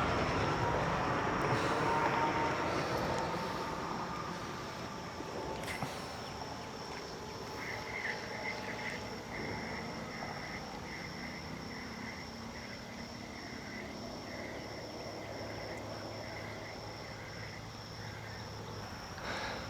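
Creek-side insects and frogs calling: a steady high insect buzz throughout. From about eight seconds in, a quick repeated chirping call about twice a second joins it and runs until near the end.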